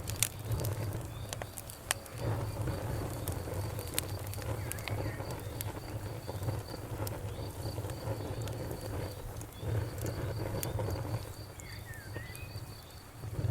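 Wood fire crackling, with scattered sharp pops over a low rumble; insects chirp in a steady pulsing rhythm in the background.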